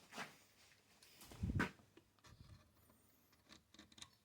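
Faint handling noises while the old rubber fuel line is worked off the chainsaw's carburettor: a light knock, a duller thump about a second and a half in, and a few small clicks near the end.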